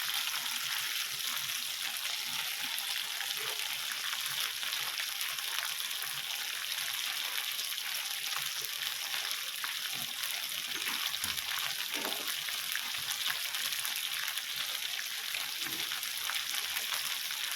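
Teriyaki chicken kebabs sizzling steadily on an indoor grill.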